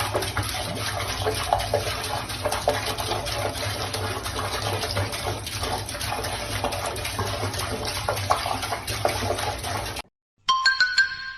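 A steady rush of running water, with a low hum underneath, then a short clip with a few ringing tones near the end.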